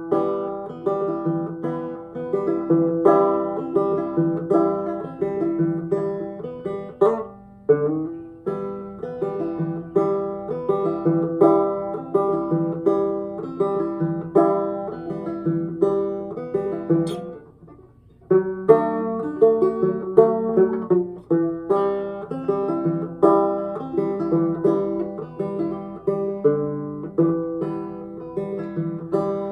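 Instrumental break of a folk song played on a plucked acoustic banjo, a steady run of picked notes with no singing. The playing breaks off for under a second about two-thirds of the way through, then starts again.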